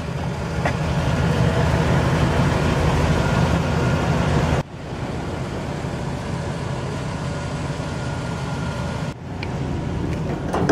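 Chevrolet 7.4-litre (454) Vortec big-block V8 idling steadily, a deep even rumble, broken abruptly twice, about four and a half and nine seconds in.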